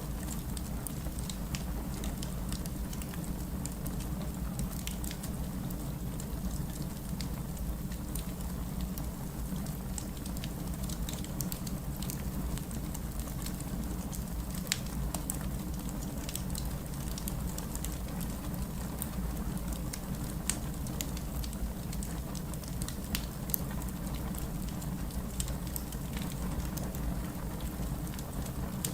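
Steady rain together with a crackling wood fire: a constant low rushing noise with sharp crackles and pops scattered throughout.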